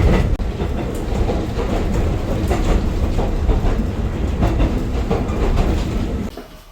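Local one-man train running, a loud low rumble with the wheels clicking and clattering over the rails; the sound drops away suddenly near the end.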